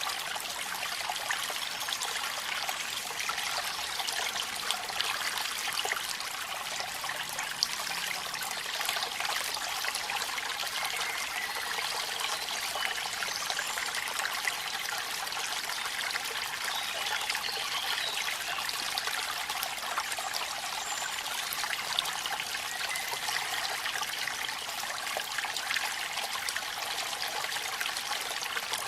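Waterfall water running steadily: an even, continuous trickling rush with fine drop-like patter throughout, in rain.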